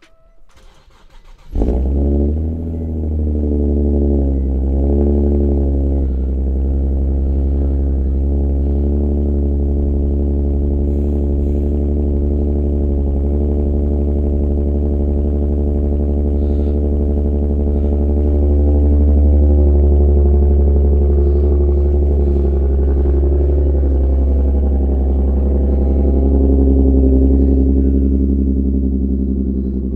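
2011 Infiniti G37S's 3.7-litre VQ37 V6, breathing through a Motordyne exhaust and Fast Intentions resonated high-flow cats, fires up on a cold start about a second and a half in. It then settles into a steady cold-start fast idle of about 1500 RPM on its automatic choke.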